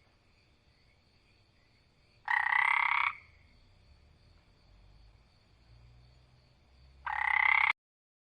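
Frog croaking: two loud croaks about five seconds apart, over a faint steady high-pitched background, the second croak cutting off suddenly.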